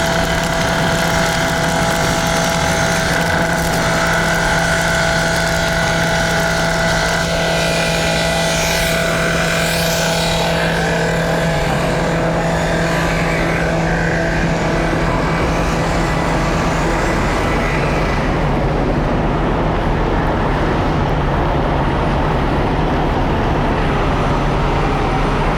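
A vehicle engine running steadily: a low hum with several higher steady tones over a constant hiss. The higher tones fade out about halfway through, leaving the hum and the hiss.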